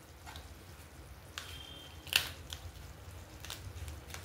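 A few light clicks and knocks of kitchen utensils over a steady low hum, with one sharper click about two seconds in.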